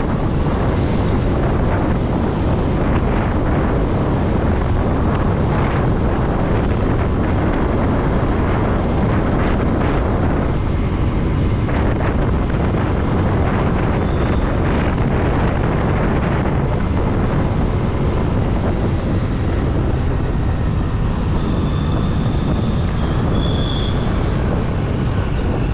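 Steady wind rush on the microphone over the running of a motorcycle riding at speed, with a faint thin high tone briefly near the end.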